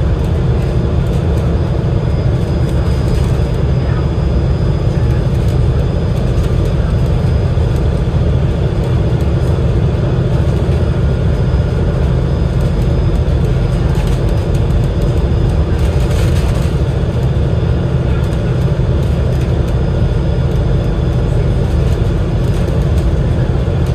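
Steady low drone of an Alexander Dennis Enviro500 MMC double-decker bus running, its Cummins L9E diesel engine and road noise heard from inside the cabin.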